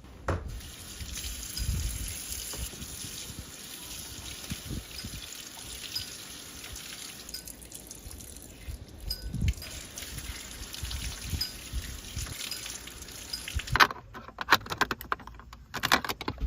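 Water running and trickling as removable pieces taken out of a car's interior are washed. A quick run of clicks and knocks follows near the end.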